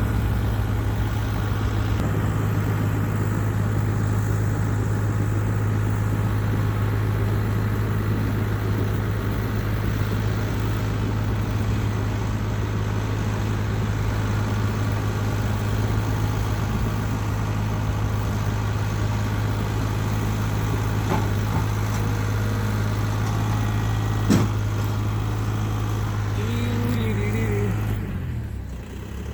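An engine running steadily with a low hum, then winding down with a falling pitch near the end.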